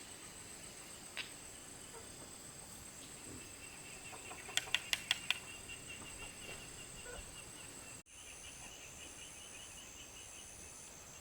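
Faint, steady, high-pitched insect chorus, like cicadas or crickets, with a quick run of about five sharp clicks about halfway through. About eight seconds in, the chorus turns to a pulsing one.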